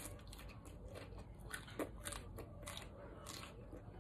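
A person chewing a raw jalapeño slice with the mouth closed: faint, crisp, irregular crunches.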